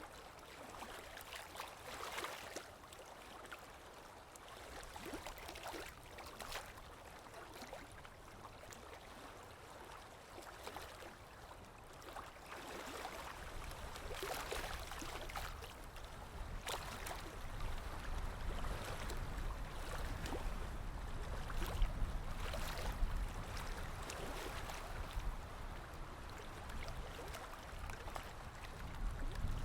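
Sea waves lapping and splashing, in irregular washes a second or two apart. A low rumble builds up through the second half.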